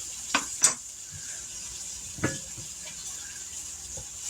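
Floured chicken pieces frying in hot bacon grease in a skillet: a steady sizzle, with a few sharp clicks or pops near the start and about two seconds in.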